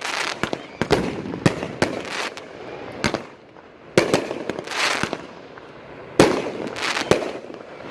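A 500-gram consumer fireworks cake firing: a rapid, irregular series of sharp bangs and louder aerial breaks, several with a short hissing tail, with a brief lull a little past three seconds in.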